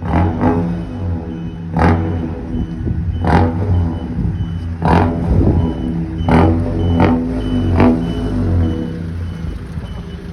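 Remote-controlled sound-effect exhaust on a Fiat Ducato playing an engine-like rumble through its exhaust speaker, with sharp pops about every one and a half seconds and a faint high beep repeating about twice a second.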